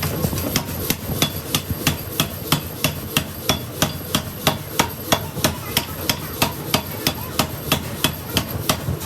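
Rapid, regular hammering in a metalworking shop, about four blows a second, each with a short ringing tone, over a steady low hum.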